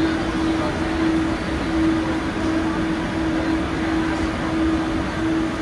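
Guangzhou Metro Line 1 Siemens A1 train running between stations: a steady rumble of wheels and track, with a hum that breaks off briefly about once a second.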